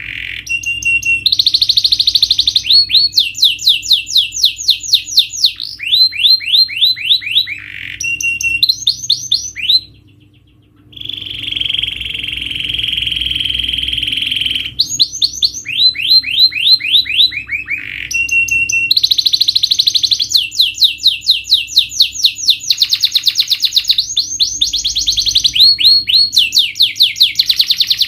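Domestic canary singing a long, loud song of fast repeated trills, one run after another. There is a short break about ten seconds in, followed by a few seconds of a steady buzzy trill.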